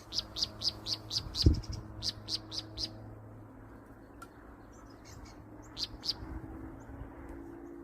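A bird calling: a quick run of short, high chirps for about three seconds, then two more chirps near six seconds. A low thump comes about a second and a half in, and a faint steady low hum runs underneath.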